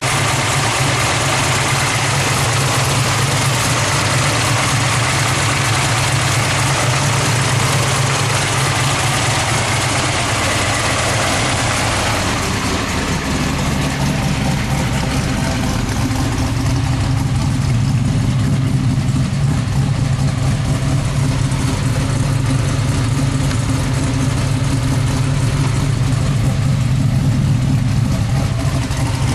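434 stroker Oldsmobile V8 idling steadily and loudly through a new 2.5-inch stainless Pypes exhaust; the tone shifts slightly about halfway through.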